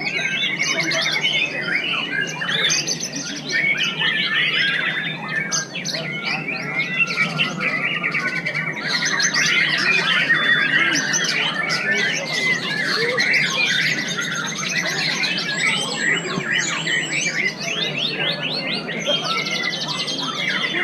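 White-rumped shamas (murai batu) singing hard, several at once: a dense, unbroken tangle of rapid trills, whistled phrases and harsh scolding notes, over a steady low hum.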